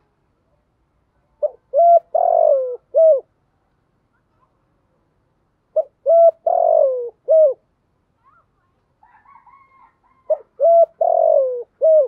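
Spotted dove cooing: the same phrase three times, about four seconds apart. Each phrase is a short note, a couple of clipped notes, a longer falling note and a short closing note.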